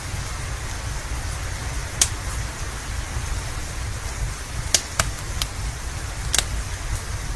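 Steady rain with a low rumble underneath. Sharp pops of a crackling wood fire cut through it about five times, the loudest about two seconds in and a quick cluster near five seconds.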